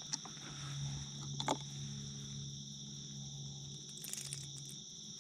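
Steady chorus of insects, a continuous high-pitched trill, under a low steady hum, with a few faint clicks.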